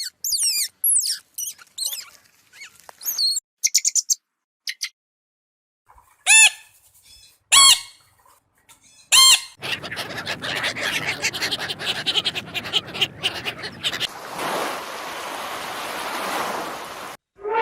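A string of different animal calls: quick high chirps and whistling sweeps like birdsong, then three short, loud, arching calls about a second and a half apart. A dense crackling chatter follows, then an even hiss that cuts off suddenly near the end.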